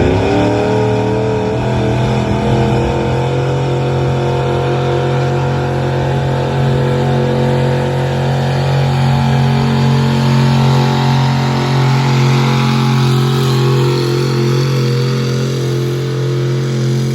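A pulling vehicle's engine held at high revs, running steadily through a long pull under load.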